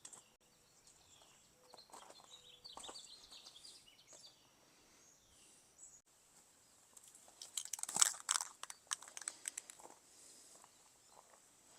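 Faint scattered crinkling and scraping handling noises, with a short cluster of rasping strokes about eight seconds in.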